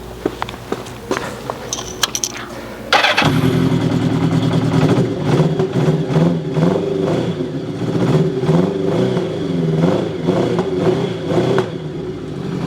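After a few clicks, a Kawasaki Zephyr 750's air-cooled inline-four engine starts about three seconds in and idles cold, slightly unsteady. One of its four cylinders, No. 3, is not firing: its exhaust pipe stays cold, which the owner puts down to a fuel supply fault or lost compression.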